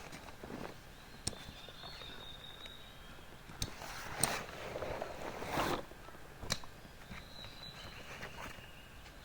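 Campsite activity: a few sharp clicks and knocks, a stretch of rustling and shuffling in the middle, and two faint, thin, high steady tones.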